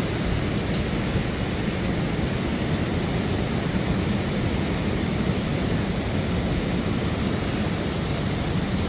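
Steady, unbroken wash of ocean surf and wind, with a faint low steady hum underneath.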